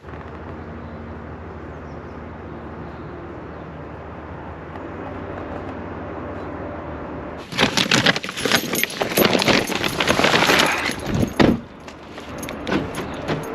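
Truck diesel engine idling with a steady low pulse, then about halfway through a loud burst of clattering, jangling and scraping for a few seconds, thinning to scattered clicks near the end.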